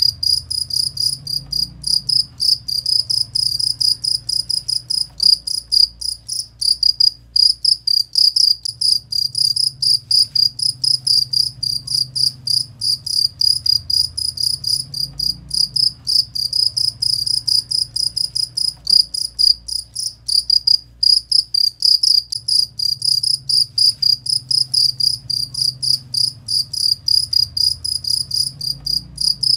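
Cricket (jangkrik) chirping loudly in a fast, continuous train of short pulses on one steady high pitch, with brief pauses now and then. It is played as training audio for a songbird to copy.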